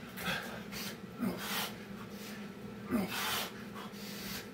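Hard breathing during burpees: forceful exhales about every one and a half to two seconds, three of them with a short falling grunt, over a steady low hum.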